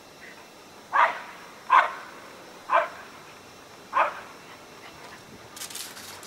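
A dog barking four times, single sharp barks about a second apart.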